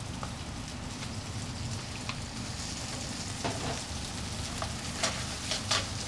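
Chopped pezzenta sausage frying in olive oil with garlic in a nonstick pan, a steady sizzle. A wooden spoon stirring it gives a few short clicks against the pan, most of them in the second half.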